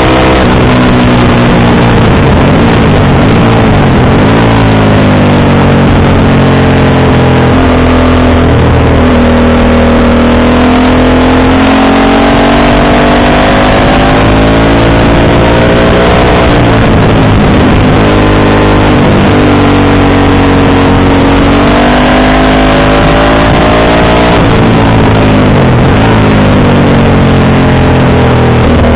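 Motorcycle engine heard through its exhaust while riding, the engine note rising and falling several times as it speeds up, changes gear and slows.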